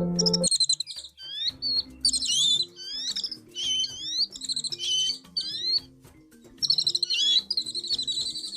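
Songbirds chirping and twittering in quick phrases of high, sliding notes with short gaps, over quiet background music with a slow melody. A louder chord cuts off about half a second in.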